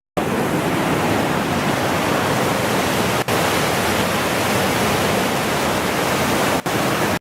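Loud, steady rush of a fast-flowing stream swollen by two days of rain, with cascading water close by. The sound cuts out for an instant twice, about a third and about nine-tenths of the way through.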